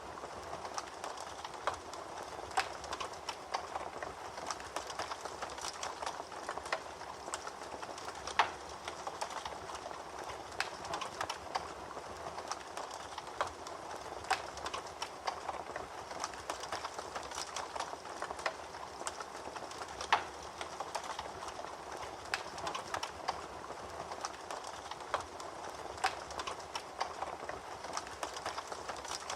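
Fire crackling in a fireplace: a steady hiss with frequent irregular sharp pops, two of them louder, about eight and twenty seconds in.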